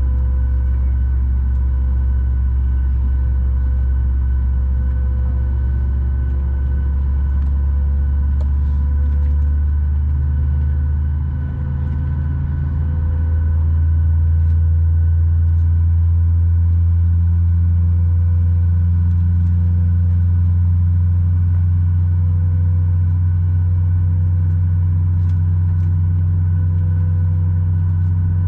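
Boeing 737 MAX 8's CFM LEAP-1B jet engine starting, heard inside the cabin: a steady low rumble with several steady whine tones over it. About twelve seconds in the rumble dips briefly, then swells louder as a higher hum joins and holds.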